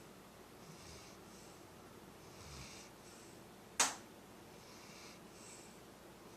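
Faint, regular breathing, one soft hissing breath about every two seconds. A single sharp click about four seconds in is the loudest sound.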